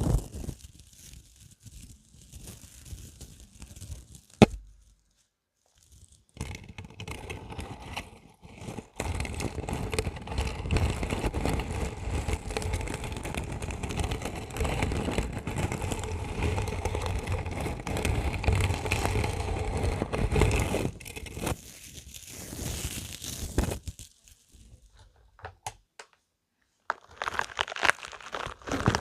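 Spiky rubber balls squeezed and rubbed close to the microphone, giving crackly rubbing and scraping. There is a sharp click about four seconds in, a long dense run of rubbing in the middle, and short pauses between handling.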